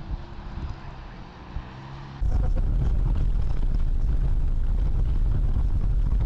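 Car engine and road noise picked up inside a moving car by a dashcam, a low hum at first. About two seconds in it cuts to a much louder, heavy low rumble of road and wind noise from another dashcam.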